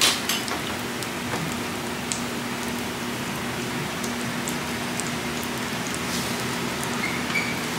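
Rectangular veggie-and-egg pancakes sizzling steadily in shallow oil on a flat steel griddle, with scattered faint crackles of spitting oil.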